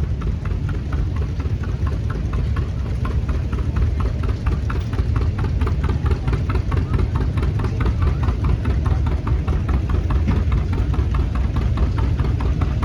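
John Deere 60 two-cylinder tractor engine running at parade speed with a steady, even beat of knocks over a heavy low rumble.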